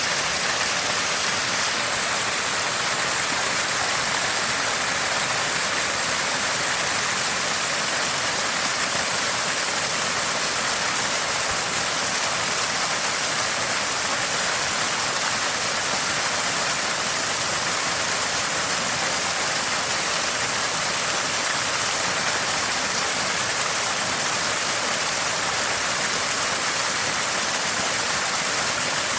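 Small spring of fresh water gushing and gurgling, a steady splashing rush that does not change.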